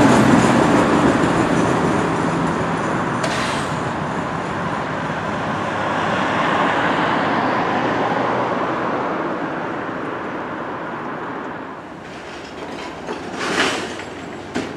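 A train running past on the rails, its rumble loudest at first and fading away as it recedes, with a few brief noises near the end.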